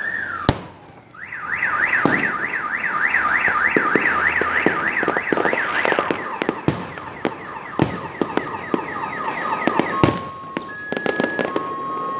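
Fireworks banging and crackling, with a sharp bang about half a second in. A car alarm, likely set off by the blasts, wails in a fast rising-and-falling sweep about three times a second from about a second in. Near the end it switches to alternating steady beeps.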